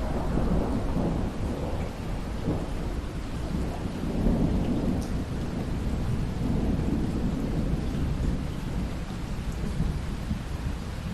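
Rolling thunder rumbling over steady rain. The rumble swells at the start and again about four seconds in, then eases off.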